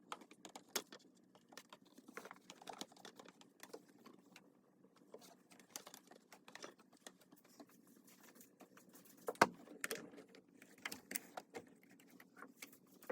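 Irregular light clicks and taps of metal and plastic parts being handled, with one louder knock about nine and a half seconds in.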